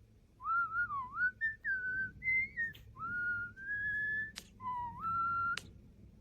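A pet starling whistling a tune in the manner of a human whistler: a string of clear notes, each under a second, stepping up and down in pitch, with a couple of notes ending in a sharp upward flick.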